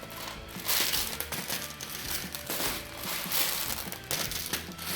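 Toy monster truck driven through a pile of Skittles candies, the hard candies clicking, rattling and scattering in a quick, irregular run of clicks, with background music underneath.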